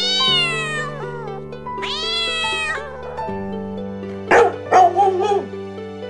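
Domestic cat meowing twice, each meow rising then falling in pitch, over background music with sustained notes. About four seconds in come a few louder, short, harsh animal calls.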